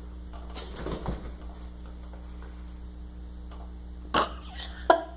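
Dachshund playing with a pillow: a soft rustle about a second in, then two sharper, louder sounds near the end, the last with a pitch to it, over a steady low hum.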